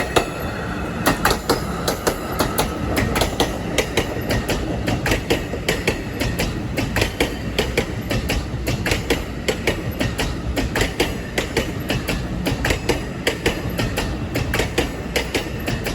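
Passenger train passing close by, its wheels clattering over the rail joints in a quick, uneven stream of sharp clicks over a steady low rumble.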